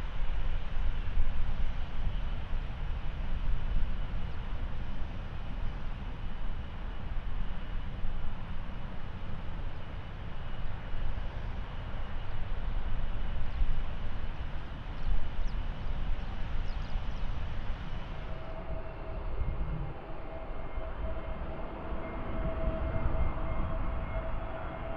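Jet airliner engines rumbling. After a cut about 18 seconds in, an approaching Airbus A320neo's engines give a steady whine over the rumble.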